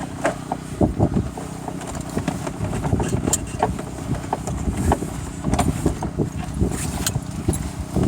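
An engine running steadily, with frequent knocks and rattles over it.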